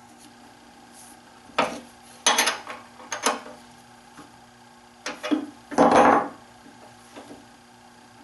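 Hard objects being handled and set down on a workbench: about five bursts of clattering knocks, the longest about six seconds in, over a faint steady hum.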